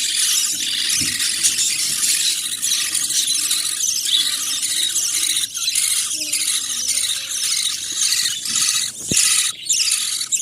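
Budgerigar chicks begging to be fed: a continuous high, raspy squealing chatter with only brief breaks. About nine seconds in there is a single short low thump.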